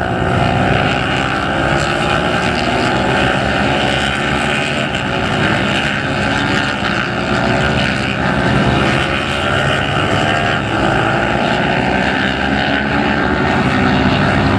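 Several racing motorcycle engines at high revs, their overlapping pitches rising slowly as the bikes accelerate.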